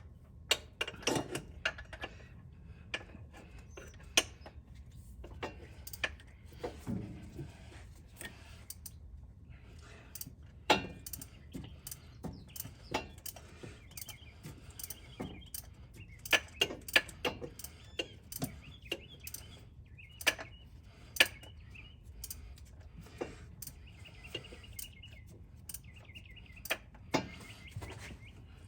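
Hand tools working on metal: scattered sharp clinks and knocks, with several runs of rapid ratchet-wrench clicking.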